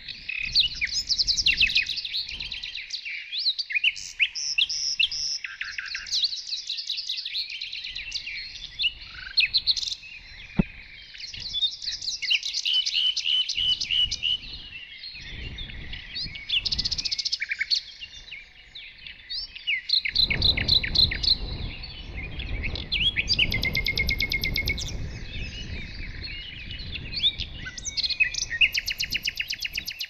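Several small songbirds singing and chirping in quick, overlapping trills and calls. A low rumbling noise joins in for several seconds about two-thirds of the way through.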